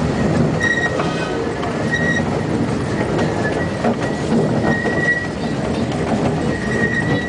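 Steam train running on its track, its wheels squealing in a high, thin tone that comes and goes several times over the steady noise of the running train.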